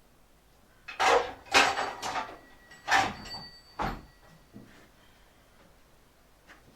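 Clattering, scraping and knocking of hard objects being handled, ending in a heavier thump about four seconds in, then a few faint knocks.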